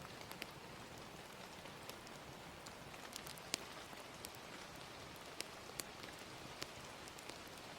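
Steady gentle rain hiss with scattered sharp crackles and pops of a wood fire, the loudest about three and a half seconds in.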